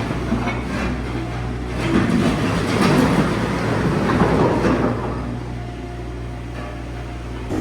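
Compact diesel machine running steadily, with a stretch of scraping and crunching of broken concrete rubble in the middle.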